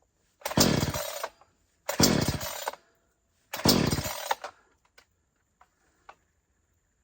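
Cheap 20-inch two-stroke chainsaw being pull-started: three quick pulls of the recoil starter cord, each under a second, the engine turning over without catching. A few faint clicks follow.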